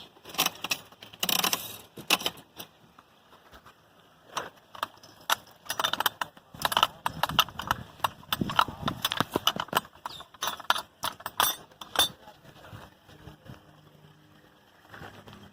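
Coin-operated animal-feed dispenser being cranked: irregular clicking and rattling as the handle turns and feed pellets spill out, heaviest in the middle of the stretch.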